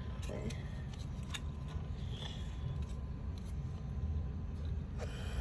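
Steady low background rumble with a few faint taps and rustles of paper craft pieces being handled.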